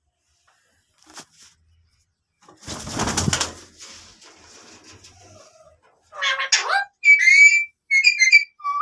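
Alexandrine parakeet (raw parrot) calling: after a brief noisy rustle about three seconds in, a run of four loud, harsh calls from about six seconds on, their pitch falling and wavering.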